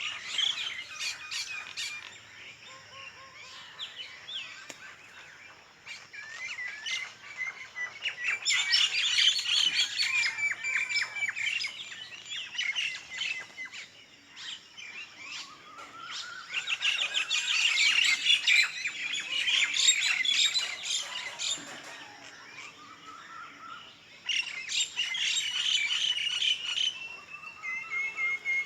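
Many small birds chirping and calling together, rapid overlapping chirps with some squawks and short rising and falling whistles, coming in loud spells of a few seconds with quieter gaps between.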